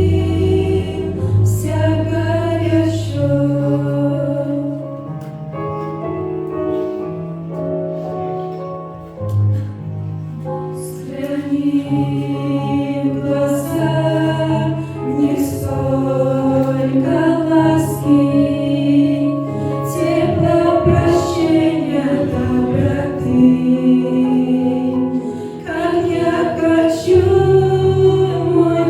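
Church choir singing a hymn in parts, in slow, sustained phrases.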